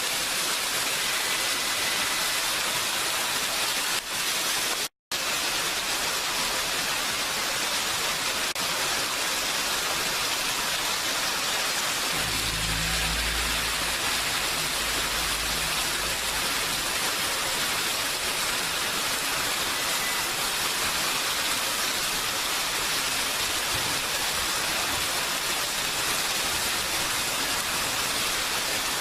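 Steady rain falling, an even hiss with no let-up. The sound cuts out for an instant about five seconds in, and a low rumble sits under the rain for a few seconds in the middle.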